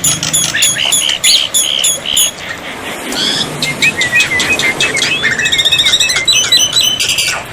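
Black-winged myna song: a quick series of shrill chirps and whistled slurs, with a fast rattling trill about two-thirds of the way through.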